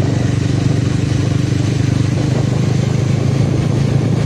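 Motorcycle engine running at a steady speed while riding, a constant low hum with rushing noise over it.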